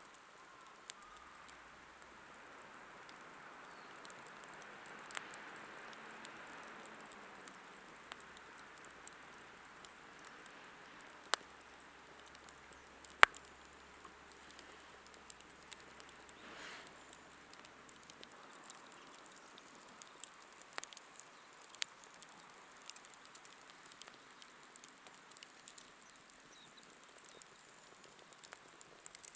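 Wood campfire crackling: scattered sharp pops and snaps at irregular moments over a soft hiss, with one louder crack about halfway through.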